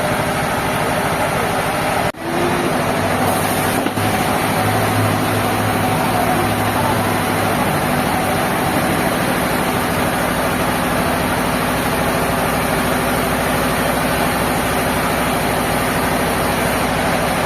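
Sawmill machinery running steadily, a dense engine-like drone with several held tones, broken by two very brief dips about two and four seconds in.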